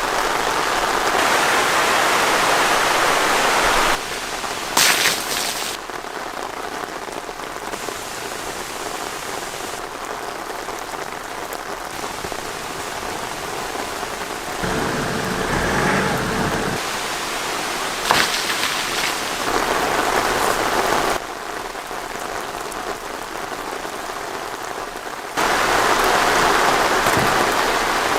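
Steady rain falling, heavy at times, as an even hiss. Its loudness and tone jump abruptly several times, with a brief sharp sound about five seconds in.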